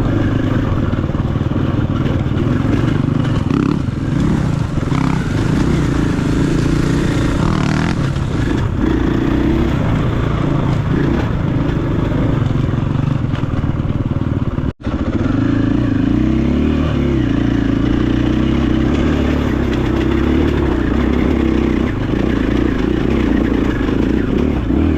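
KTM 500 EXC-F's single-cylinder four-stroke engine running as the dirt bike is ridden along a trail, its note rising and falling with the throttle. The sound cuts out for an instant about fifteen seconds in.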